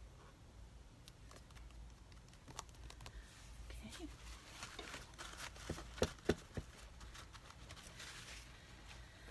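Paper being handled, rustling and crinkling, with light clicks and two sharp taps about six seconds in.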